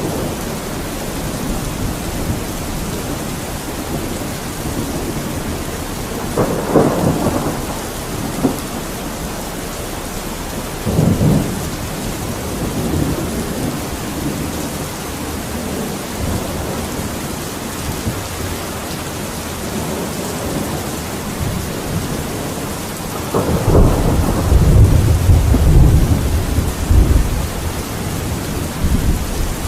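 Steady rain with thunder: two short rumbles in the first half, then a longer, louder rumble of thunder in the second half.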